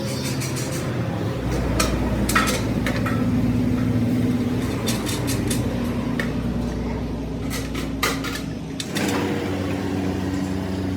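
Metal clanks and clinks from work on steel parts, over the steady hum of a running machine. A deeper low rumble joins in about a second and a half in and stops a couple of seconds before the end.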